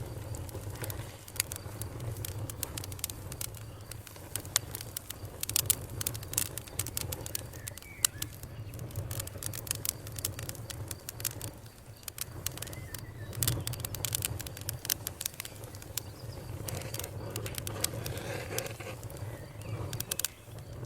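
Wood fire crackling and popping, with irregular sharp snaps over a steady low rumble of the burning fire.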